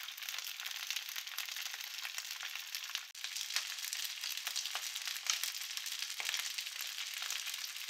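Thin rounds of pressed cold cooked rice shallow-frying in a few spoonfuls of oil in a nonstick pan: a steady sizzle dotted with small crackles and pops as the rice cakes fry toward golden and crisp.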